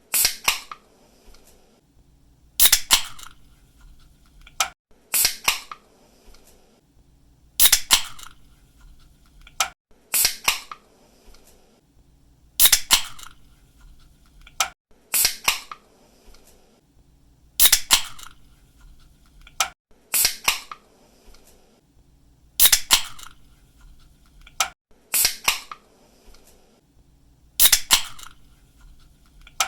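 Aluminium drink can's pull tab being snapped open again and again, a sharp crack about every two and a half seconds, each one preceded by a faint click as the tab is lifted.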